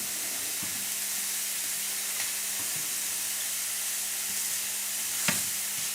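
Mushrooms sizzling steadily in a hot frying pan with no oil, the water cooking out of them. A few faint ticks and one sharper tap come about five seconds in.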